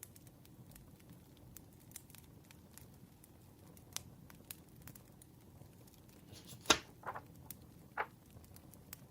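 Wood campfire crackling: scattered small snaps over a soft low rumble, with one sharp loud pop about two-thirds of the way through and a couple of smaller pops just after it.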